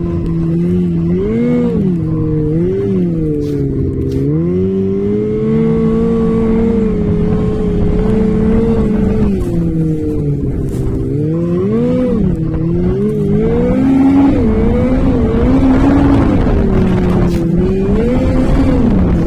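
Engine of an off-road vehicle running under changing throttle, its pitch rising and falling over and over as the throttle is opened and closed.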